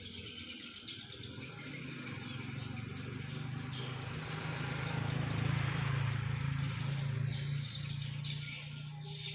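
A motor vehicle's engine running, growing louder towards the middle and fading again near the end, like a car or motorcycle passing. A steady high hiss runs underneath.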